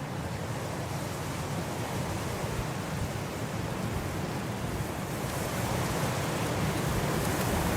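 Blizzard wind blowing in a steady rush that slowly swells and grows brighter, with more hiss coming in about five seconds in.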